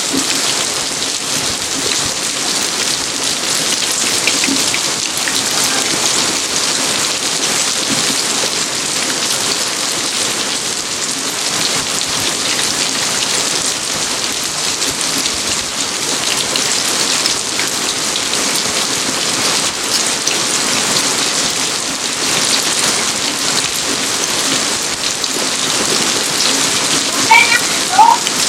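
Steady rain falling on a garden, an even, constant hiss of drops. A couple of brief, sharper, louder sounds come near the end.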